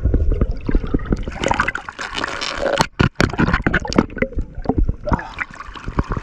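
Water sloshing and gurgling close to the camera, with many small splashes and bubble pops and a brief dropout about three seconds in.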